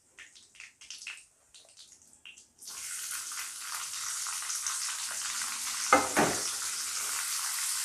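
Whole dried red chillies, cumin and nigella seeds crackling with small scattered pops in hot oil in a kadai. About two and a half seconds in, sliced onion goes into the oil and a steady sizzle starts and keeps on, with two short clatters about six seconds in.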